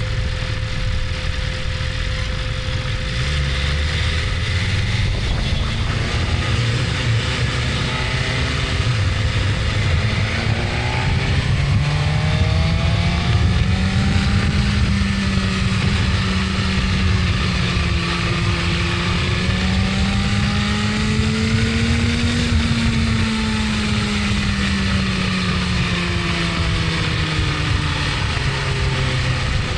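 BMW S1000RR inline-four engine running under way, its pitch rising slowly and then easing off, over steady wind and road noise.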